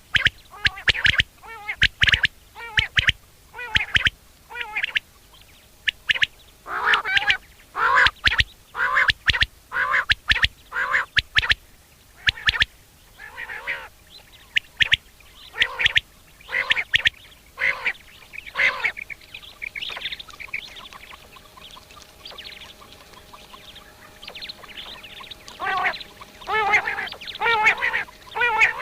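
A bird giving runs of short, nasal calls, several a second, that thin out about halfway through. After a quieter stretch with only a faint steady tone, another rapid run of calls starts near the end.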